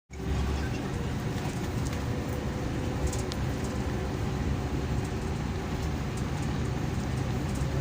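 Scania K340EB coach heard from inside the passenger cabin: a steady engine drone and low rumble.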